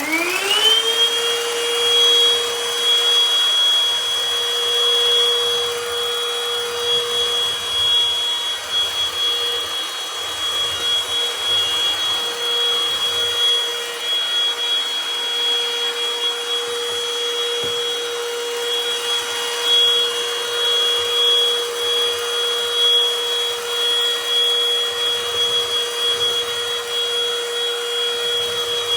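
Vacuum cleaner motor spinning up over about a second, then running steadily with a high whine.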